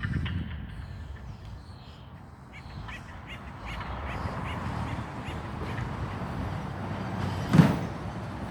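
Harsh bird calls over a noisy background, with a single sharp knock about seven and a half seconds in.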